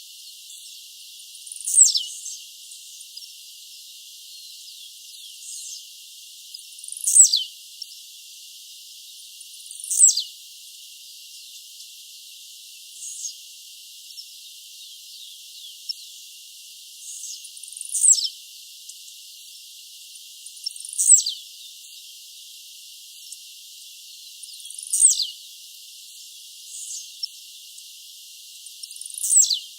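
Blue-black grassquit (tiziu) singing: a short, sharp downward-sweeping note repeated every three to four seconds, with fainter notes between, over a steady faint hiss.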